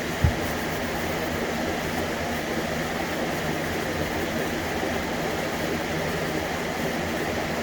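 Steady mechanical whirring noise from a running machine, with a few steady tones in it, and a single short thump just after the start.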